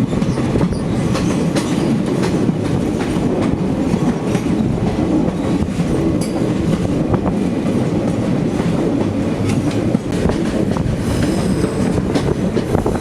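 Passenger train running along the track: a steady rumble of the coaches with the clickety-clack of wheels over rail joints.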